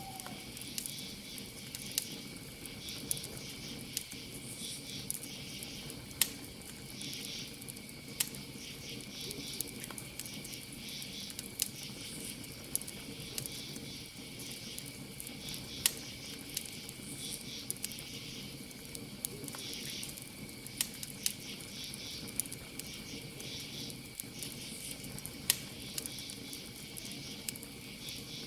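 Campfire crackling, with sharp pops every second or so and a few louder snaps, over a steady high cricket trill.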